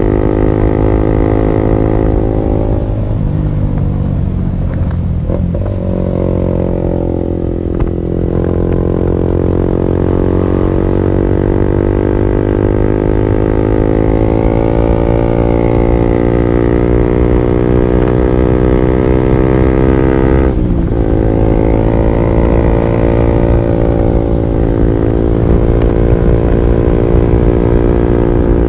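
Honda CB150R's single-cylinder engine running through an aftermarket R9 Alpha Series exhaust while riding, with a steady, loud exhaust note. The pitch dips and climbs back twice, about five seconds in and again about twenty seconds in.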